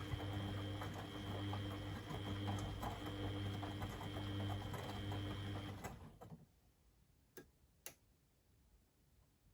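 Beko WMD 46160 washing machine turning its drum in the wash cycle: the motor runs with a steady hum and a rattling tick for about six seconds, then stops, leaving a pause broken by two faint clicks.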